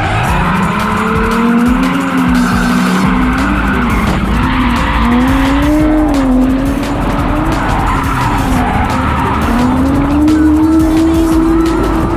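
Ford AU Falcon drift car's engine revving up and down, its pitch rising and falling as it is held on the throttle, with tyre squeal through a slide.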